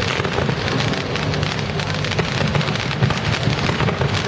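Fireworks going off in a steady, dense crackle and hiss, with many sharp pops packed through it.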